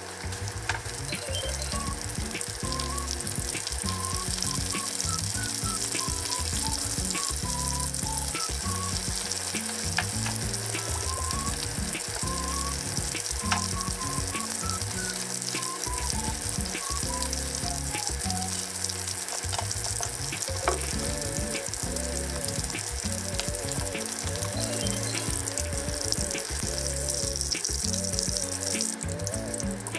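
Battered chicken thigh pieces shallow-frying in oil in a frying pan, a steady sizzle with frequent small pops and crackles.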